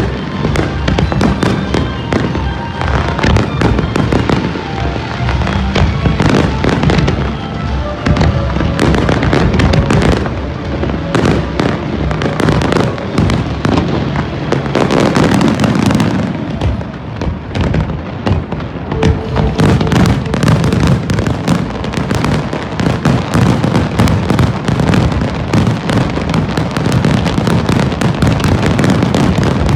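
Fireworks display going off without pause: dense, overlapping bangs and crackling bursts, with music playing underneath.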